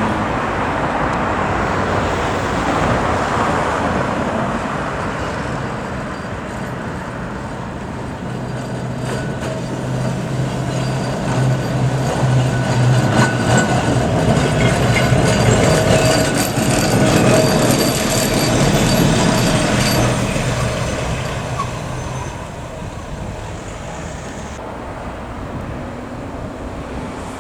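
Electric heritage tram running on the rails, growing louder through the middle and then fading, with a steady low hum and a few wheel clicks.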